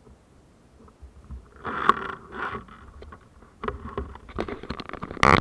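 Irregular rustling and scraping with scattered knocks, starting after a quiet first second and getting louder near the end.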